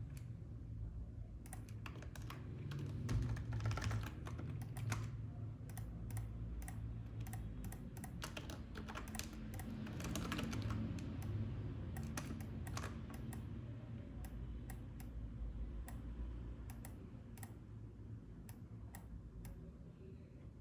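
Computer keyboard keys clicking at an irregular pace, in quick clusters and single taps, over a low steady hum.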